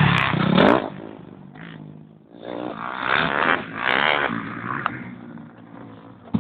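Dirt bike engine revving: a loud, rising rev in the first second that cuts back sharply, then two more revs a couple of seconds later.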